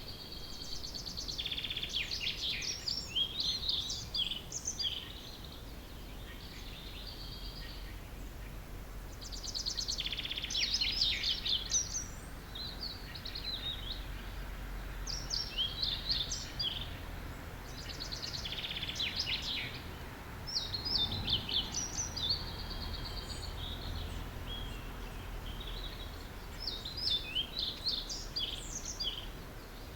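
Early-morning chorus of several songbirds, short song phrases overlapping and recurring every few seconds over a low steady background hum.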